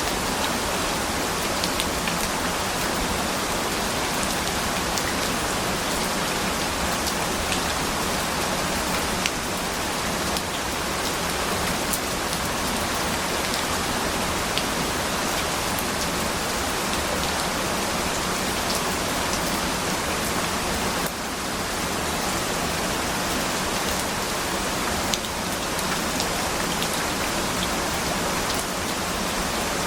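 Steady rain: a dense, even hiss of rainfall with scattered sharp drop ticks on a surface.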